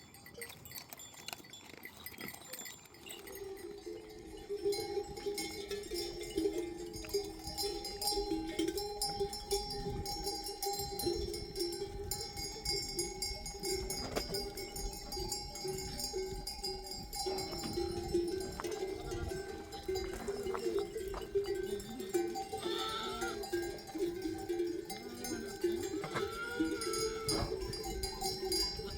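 Livestock bells on a flock of sheep and goats clanking continuously as the animals move, swelling in about three seconds in, with a few bleats near the end.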